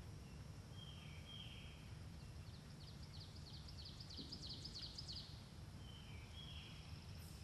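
Faint outdoor ambience with a low steady rumble and birds singing: a short buzzy call about a second in and again near six seconds, and a quick run of high chirping notes between about two and a half and five seconds in.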